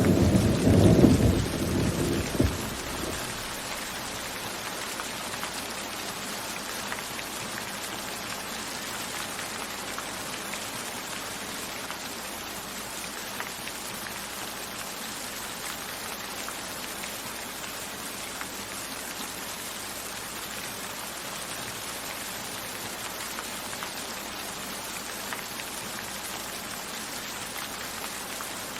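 Steady rain falling, with scattered faint drop ticks. A loud, low thunder rumble dies away in the first three seconds.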